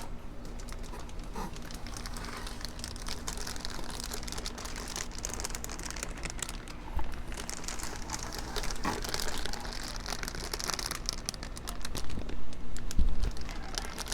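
Packaging crinkling and rustling as it is handled, in irregular bursts that get louder near the end.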